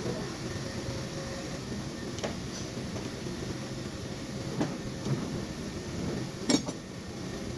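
A few separate sharp knocks, the loudest about six and a half seconds in, over a steady mechanical hum.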